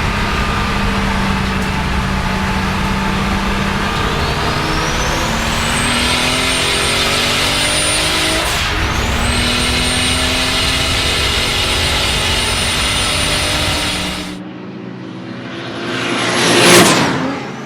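Turbocharged 3.8-litre M30 straight-six of a BMW 535i E34 accelerating hard under boost. A high turbo whistle climbs and then holds, and the engine pitch rises, breaks briefly for a gear change, then rises again. About fourteen seconds in the sound drops abruptly, then the car passes close by, loudest near the end.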